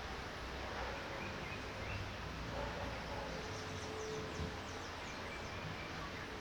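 Steady hiss of light rain with a low rumble underneath, with faint short high chirps from about three seconds in.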